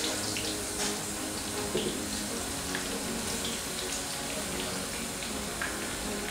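Cubed eggplant sizzling and crackling as it is dropped into hot seed oil in a frying pan: a steady sizzle with scattered sharp pops.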